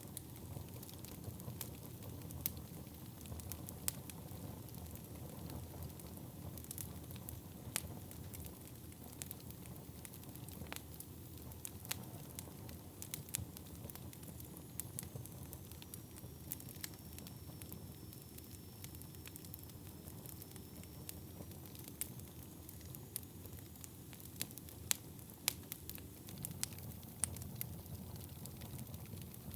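Wood fire burning in a fireplace: a steady low rumble of flames with frequent sharp, irregular crackles and pops from the burning wood. A faint high hiss or whistle drifts in the middle, like gas escaping from a log.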